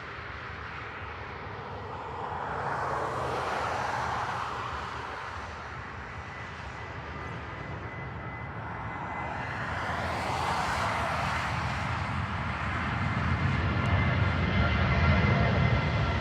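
Jet engines of a departing Southwest Boeing 737: a steady rushing noise with a faint whine, swelling and fading and then growing louder toward the end.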